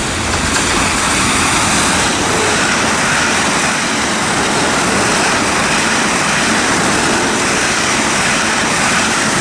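Twelve-coach train of three Class 450 Desiro electric multiple units passing through the station: a loud, steady rush of wheels on rail and air.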